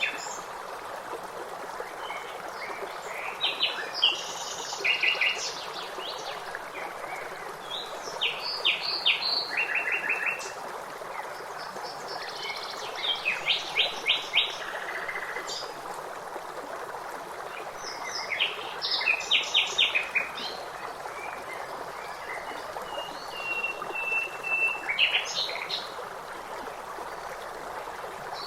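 Songbirds chirping and singing in short phrases of fast repeated notes every few seconds, with one longer whistled note near the end, over the steady rush of a stream.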